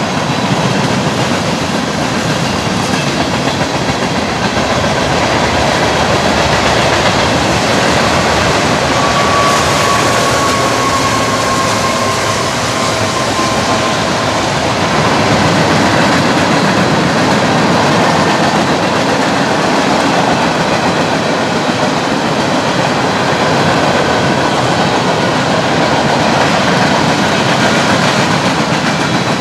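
Freight cars of a CSX mixed freight train rolling past close by: a steady, loud rolling noise of steel wheels on rail. About ten seconds in, a faint thin squeal joins for a few seconds, sinking slightly in pitch.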